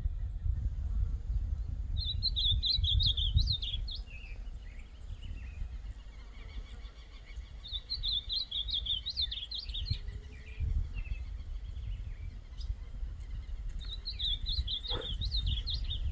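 Ultramarine grosbeak (azulão) singing: three short warbled song phrases, each about two seconds long and several seconds apart, over a steady low rumbling noise.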